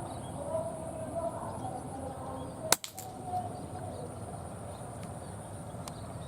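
A single sharp shot from an air rifle a little under three seconds in, followed by a fainter click, over birds chirping.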